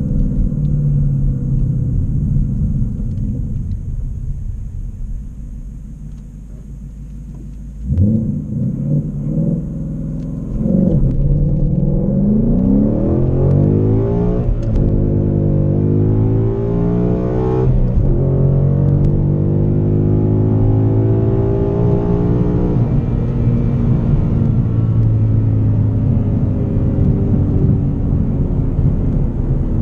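2018 Ford Mustang GT's 5.0 Coyote V8 through a Borla exhaust. It runs steadily at first and blips the throttle sharply a few times about eight seconds in. Then it accelerates hard, rising in pitch through three upshifts of the six-speed manual, and settles into a steady cruise for the last several seconds.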